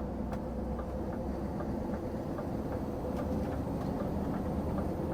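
Lorry engine and road noise heard from inside the cab, a steady low rumble that grows slightly louder, with faint regular ticks over it.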